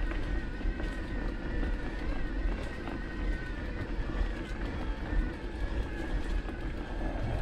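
Motocross bikes' engines running at speed, a steady high wavering whine over a low rumble.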